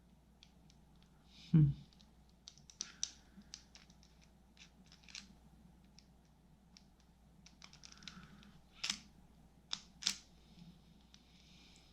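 Small clicks and taps from the parts of a disassembled spinning reel being handled and turned, with one dull knock about a second and a half in and a few sharper clicks near the end.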